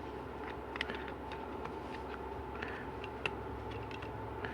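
Pitter patter of pets' feet: light, irregular clicks, a few each second, over a steady background hum.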